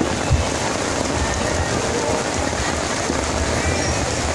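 Heavy rain pouring down steadily, a dense even hiss, with one dull thump about a third of a second in.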